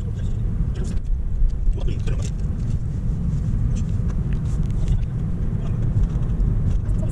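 Car on the move, heard from inside the cabin: a steady low road and engine rumble, with light scattered ticks and rattles.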